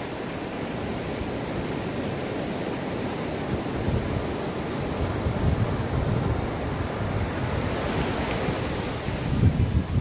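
Sea waves washing onto the shore in a steady surf wash, swelling louder through the second half with a stronger surge near the end.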